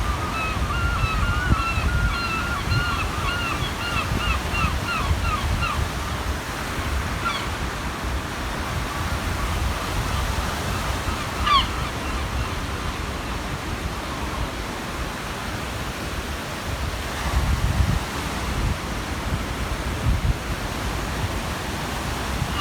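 Gull calling: a quick run of short, repeated calls for the first six seconds, then a few single calls. Beneath them, waves wash on the shore and wind rumbles on the microphone.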